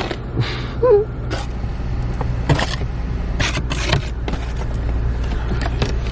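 Toyota Tacoma pickup's engine running steadily at a low pitch, heard from inside the cab, with scattered short knocks and thuds over it and a brief small vocal sound about a second in.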